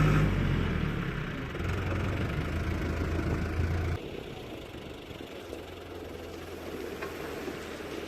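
Diesel engine of a tractor or excavator running. It is loud at the start, eases off over the first second, then drops to a noticeably quieter run about four seconds in.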